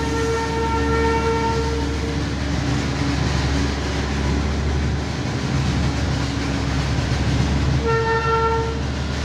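Darjeeling Himalayan Railway narrow-gauge diesel train running, heard from inside a coach: a steady rumble of engine and wheels. A horn blares for the first two seconds and again briefly near the end.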